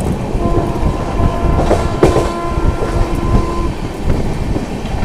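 Express train running at speed, heard from an open coach doorway: heavy rumble and wheel clatter. A train horn sounds one steady note from about half a second in until about three and a half seconds.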